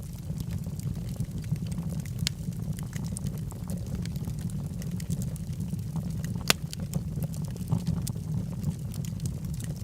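Log fire burning in a fireplace: a steady low rumble of flame with scattered crackles and pops from the burning wood, one sharper pop about six and a half seconds in.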